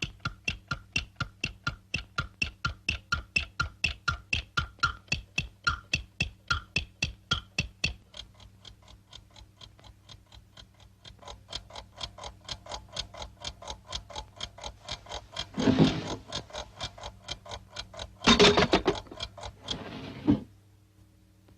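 Clock ticking steadily, about three ticks a second. For the first several seconds each tick carries a bright pitched tone; after that the ticking goes quieter. A loud noisy burst breaks in about two-thirds of the way through, and a longer one comes near the end.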